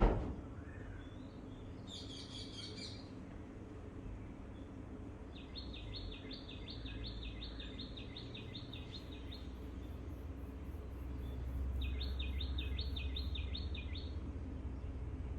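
Songbirds singing: a short burst of high chirps, then two rapid trills of repeated notes, about five a second, over a steady low rumble. A sharp thump right at the start is the loudest moment.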